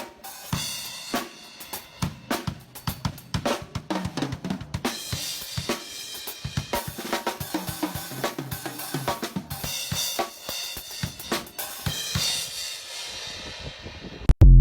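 A drum kit being played in a busy, uneven pattern of snare, bass drum and cymbal strikes, ending with a loud low thud just before the end.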